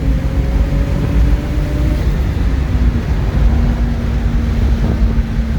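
Turbocharged Lexus IS200's straight-six engine running on the move, with a dense low rumble. A tone rises slowly through the first two seconds and then stops, while a steady lower drone holds on, dropping out briefly about three seconds in.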